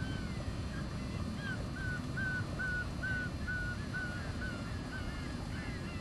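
Birds calling in a quick run of short, high chirps, about three a second and loudest through the middle, over a steady low rumble.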